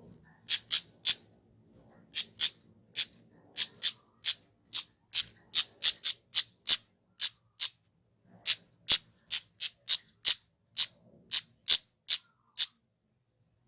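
Kemade (flowerpecker) repeating short, sharp, high-pitched 'tsit' chip calls, about two a second, some coming in quick pairs.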